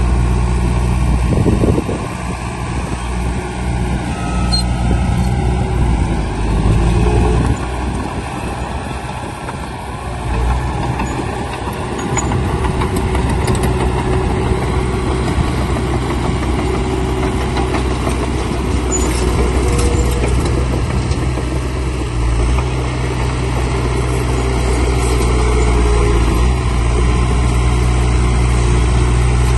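Heavy diesel earthmoving machinery running steadily, its engine note shifting and dipping several times as the load changes.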